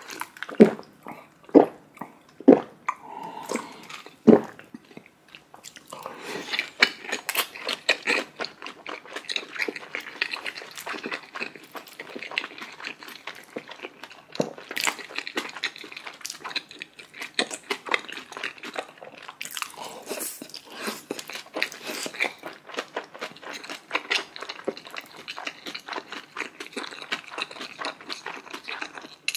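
Close-miked chewing of a mouthful of steamed dumplings and chewy spicy jjolmyeon noodles, with wet smacking. A few separate bites in the first few seconds, then continuous chewing.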